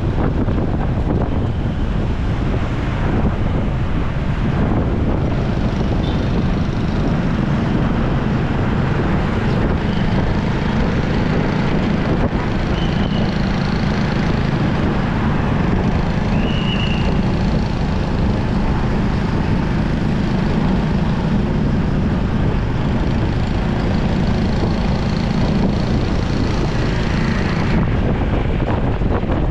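Motorcycle riding through city traffic: steady wind rush on the microphone over the bike's engine drone and road noise, with the surrounding traffic running alongside.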